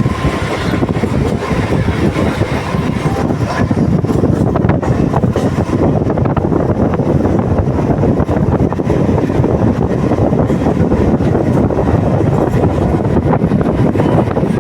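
Train running along the track: a steady, loud rumble with a faint steady whine above it.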